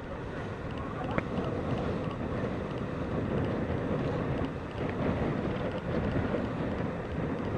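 Steady wind noise buffeting the microphone over the even rumble of a boat under way on open water.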